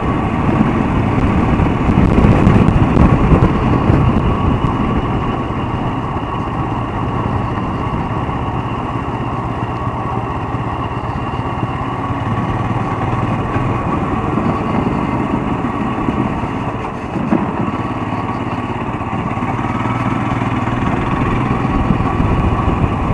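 Royal Enfield Himalayan motorcycle engine running steadily as the bike is ridden.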